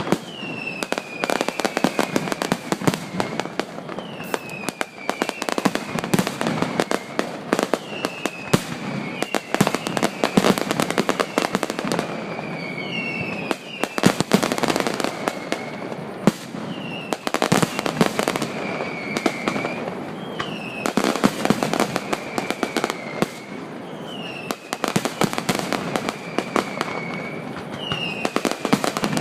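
Closing barrage of a fireworks display: a dense, unbroken run of firework bangs and crackles, with a falling whistle recurring every second or two.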